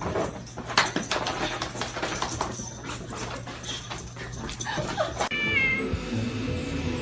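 A pet animal's calls and scuffling, over background music; about five seconds in it cuts abruptly to music alone.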